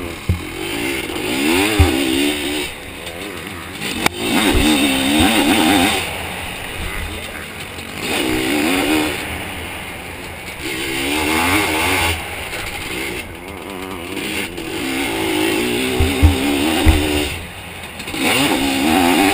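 Zabel 700 two-stroke motocross sidecar engine revving hard in repeated bursts, its pitch rising and falling as the throttle opens and shuts, with a few low thumps along the way.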